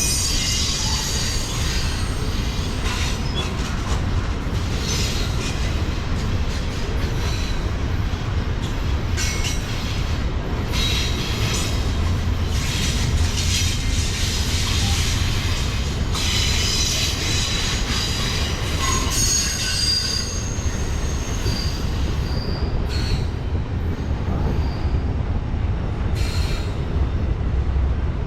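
Freight train rolling past with a steady low rumble, its wheels squealing now and then in high thin tones, with occasional clicks from the rails.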